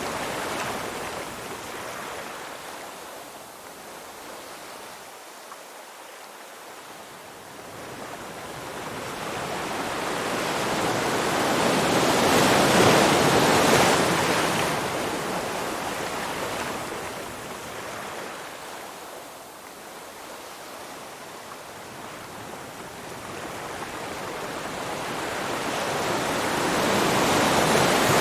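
Ocean waves washing in and drawing back. Two slow swells of surf noise build and fade, the louder ones about halfway through and at the end.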